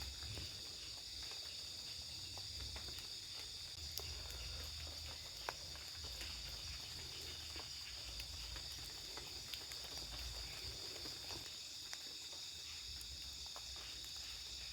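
Steady, high-pitched chorus of forest insects, with scattered light clicks and a low rumble underneath.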